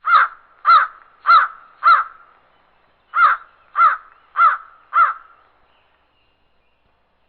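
A crow cawing: two runs of four harsh caws, about 0.6 s apart, with a pause of about a second between the runs.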